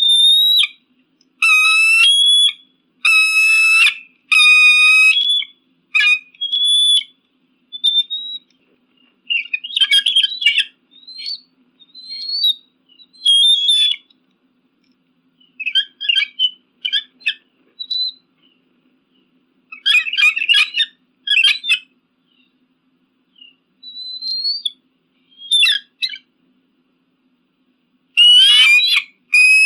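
Eagle calling: a string of short, high-pitched whistled cries and chattering notes, coming in runs with silent gaps between them.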